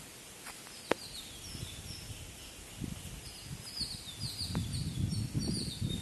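Small birds chirping in the background, with series of short, high-pitched repeated notes that grow busier in the second half. A single sharp click about a second in, and low rustling and thumping near the end.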